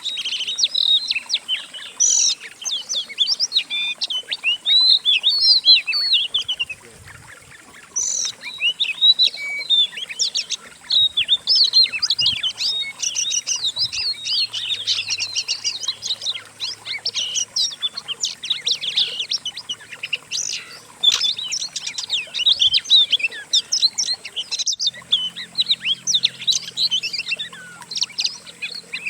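Several songbirds singing in a dense, continuous mix of fast chirps, whistles and trills, with a brief lull about seven seconds in.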